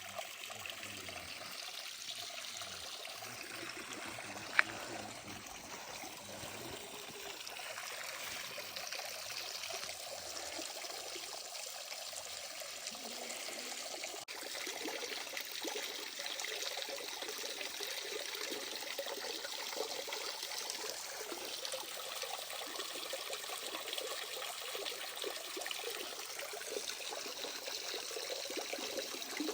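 Water running and trickling steadily, with one sharp click about four and a half seconds in.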